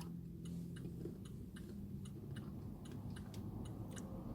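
Faint, steady ticking of a clock, about two ticks a second, over a low room hum.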